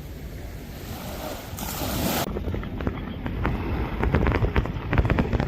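Wind buffeting the microphone over the wash of surf on a beach. A short burst of hiss comes about two seconds in, then a run of rapid crackling buffets grows louder near the end.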